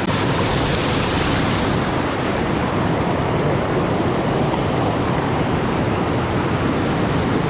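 Creek water rushing loudly and steadily over rocks at a small waterfall.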